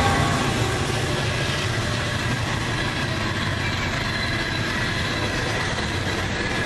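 Loaded coal hopper cars of a CSX freight train rolling past at about 50 mph: a steady rumble and rattle of steel wheels on the rails, with the locomotives' engine sound fading out in the first second or two.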